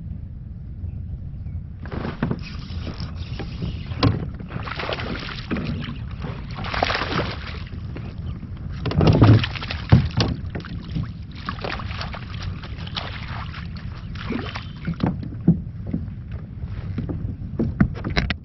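Water rushing and splashing around a moving kayak, with wind rumbling on the microphone. The irregular splashing starts about two seconds in and is loudest around the middle.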